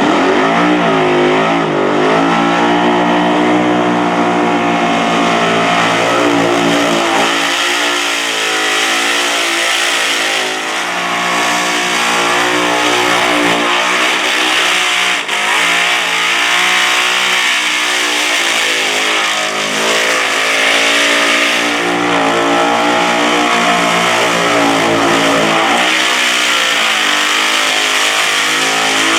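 Burnout car's engine revving hard at high revs, its pitch rising and falling again and again, over a steady hiss.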